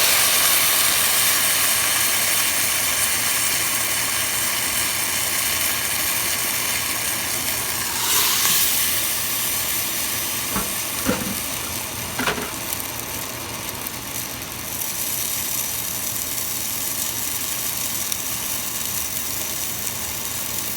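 Marinated chicken legs frying in a pan with onion and garlic: a steady sizzle that eases slowly, with a few knocks of a cooking utensil against the pan about eight and eleven to twelve seconds in.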